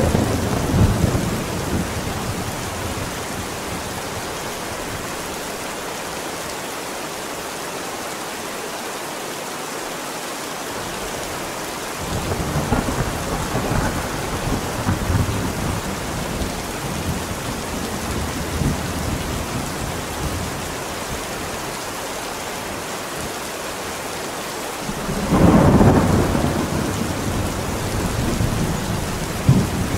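Steady rain falling throughout a thunderstorm, with rolling thunder. A rumble fades out just after the start, and a longer, softer rumble comes about halfway through. The loudest peal of thunder swells about five-sixths of the way in, and a short crack follows near the end.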